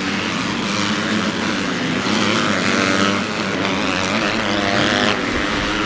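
Several motocross bikes' engines running hard, their pitch rising and falling with the revs as they race.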